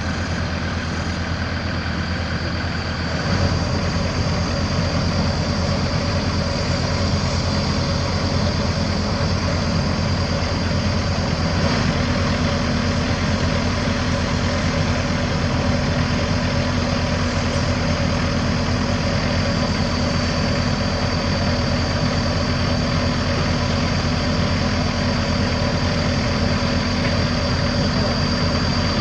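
Heavy diesel earthmoving machine engine running steadily, with a thin high whine over it. It steps up louder about three seconds in and holds there.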